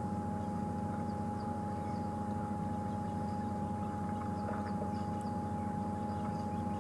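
Safari vehicle engine running steadily while driving, with a constant high-pitched whine alongside.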